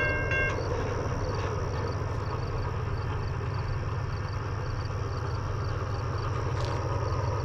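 Railway level-crossing bell ringing in quick even strokes, about three a second, stopping about half a second in. Then a steady low rumble remains, with crickets chirping faintly in a repeating pattern.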